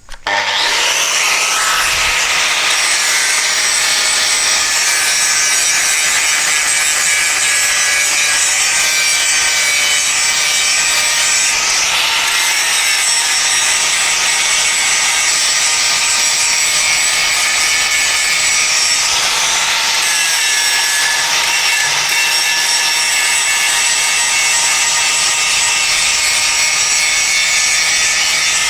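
Power grinder grinding the edge of a steel rotary mower blade, sharpening a blade worn blunt. It starts abruptly just after the beginning and grinds steadily with high ringing tones, its pitch dipping briefly a couple of times as the disc is pressed into the metal.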